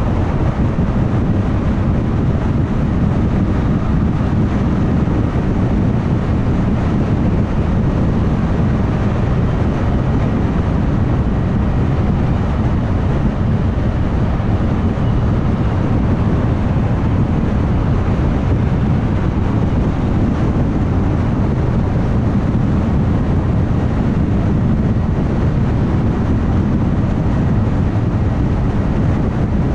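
Steady road noise of a car cruising at highway speed: a low, even rumble of tyres and engine with no changes or distinct events.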